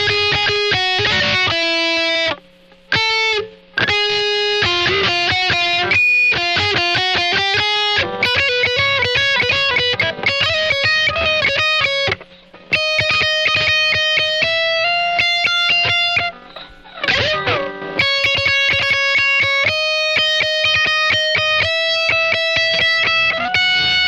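Epiphone SG Special electric guitar with P90 pickups, played through a Boss ME-80 multi-effects unit: a quick run of picked single notes and chords, loud, with a few short breaks between phrases.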